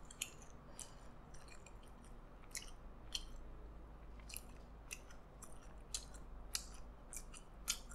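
A person chewing food close to the microphone: faint, irregular mouth clicks a few times a second.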